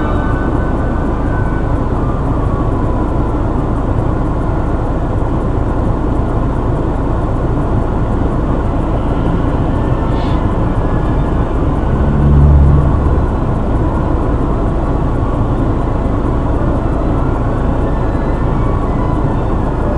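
Steady vehicle noise heard from inside a car's cabin, with a brief louder low hum about twelve seconds in that lasts about a second.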